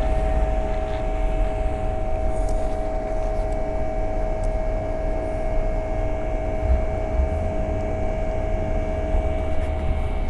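Electric bike riding at steady speed: a constant motor whine over low wind rumble on the microphone.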